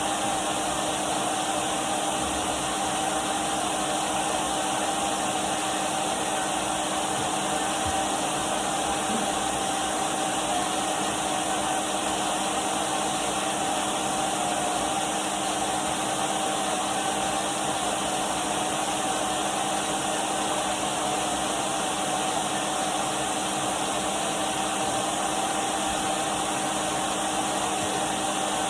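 Numatic Henry vacuum cleaner running steadily: an even rushing hiss with a constant whine from the motor.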